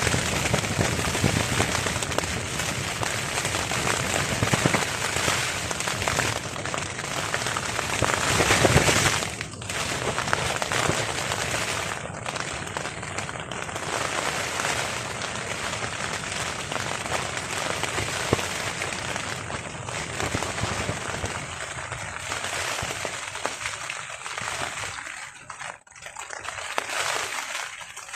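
Heavy rain pattering on a tarp, a dense crackling patter of drops that swells about nine seconds in and thins out near the end.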